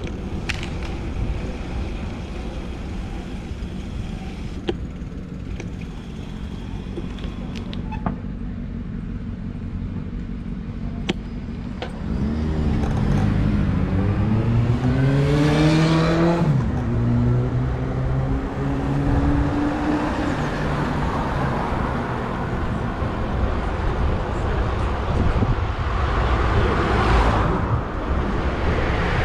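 City street traffic with a low rumble. About halfway through, a motor vehicle engine close by speeds up, its pitch climbing in steps as it shifts up through the gears, then more vehicles pass near the end.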